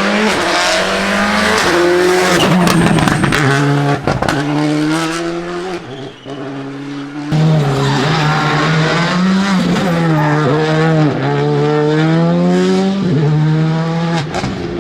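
Rally car engines revving hard and unevenly through a mountain stage, the pitch climbing and dropping again and again with throttle and gear changes. The engine note fades away around six seconds in, and a loud engine cuts in abruptly just after seven seconds.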